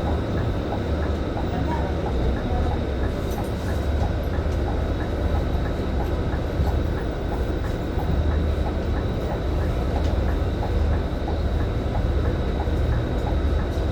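Cabin noise of a Scania K310IB city bus on the move: a steady low drone of engine and road, with many faint clicks and rattles over it.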